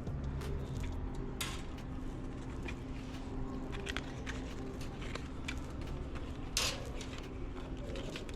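Steady low hum of a large store's background, with scattered light clicks and rustles of handling; the two loudest rustles come about a second and a half in and about six and a half seconds in.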